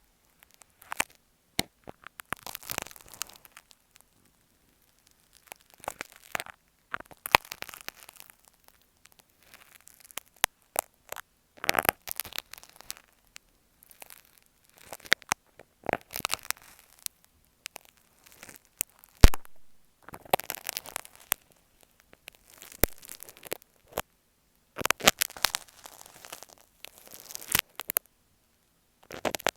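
Dressmaker's pins (machi-bari) scratching and tapping on an earphone microphone held close: irregular rasping strokes and sharp clicks, separated by short pauses.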